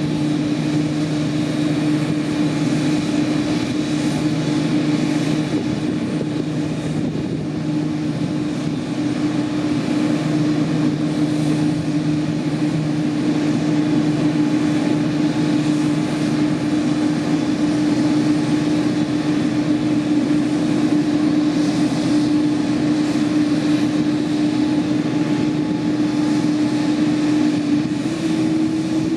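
Boeing 787-8's GEnx-1B turbofan engines running near idle: a steady hum with a low held tone over a rushing noise. The tone's pitch steps up slightly near the end.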